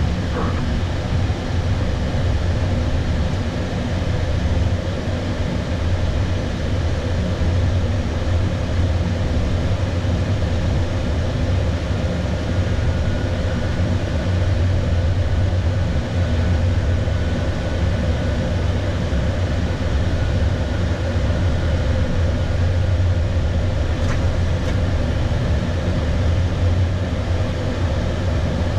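Steady rushing airflow and engine noise on the flight deck of an Airbus A320 on approach, with a faint steady whine in the middle.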